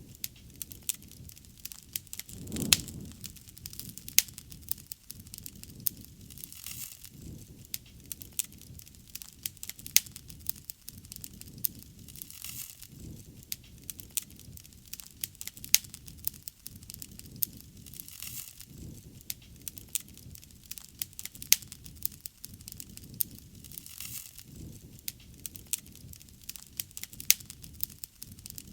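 Wood fire burning with irregular crackles and sharp pops over a low rumble of flames, a few pops much louder than the rest.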